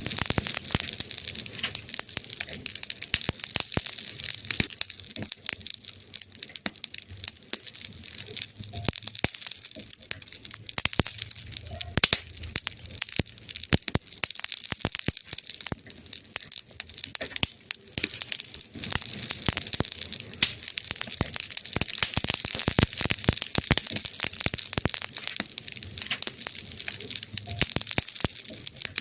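Wood fire crackling without pause: a dense run of sharp pops and snaps over a soft hiss, with a couple of louder pops about 12 and 20 seconds in.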